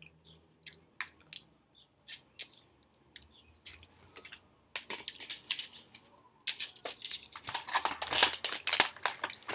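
Close-miked eating sounds: chewing, with scattered wet clicks and smacks, then a dense run of crunching and rustling over the last three seconds or so.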